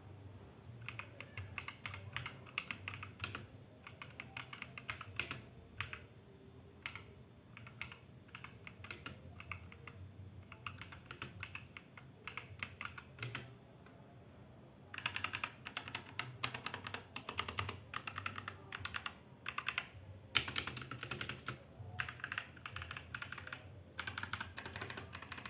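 Typing on a Zifriend ZA68 mechanical keyboard with factory-lubed linear TNT switches: irregular runs of quick keystrokes with short pauses, typing faster and denser for the last ten seconds or so.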